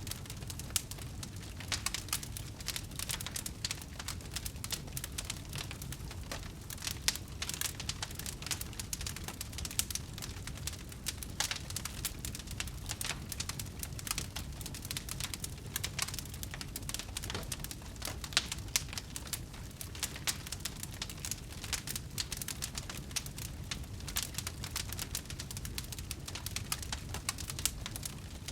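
Wood fire burning, with dense, irregular crackles and pops over a low, steady rumble.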